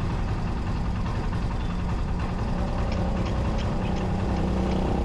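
Motorcycle engine running steadily, heard from on the bike, with a few light clicks in the second half.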